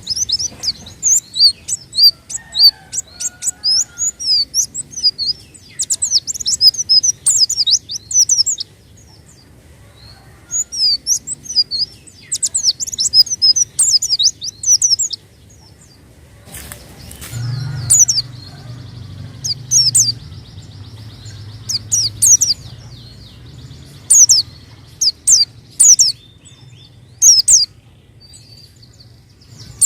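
White-eye (pleci) song: rapid, high-pitched twittering chirps in bursts, broken by short pauses. A low hum runs underneath in the second half.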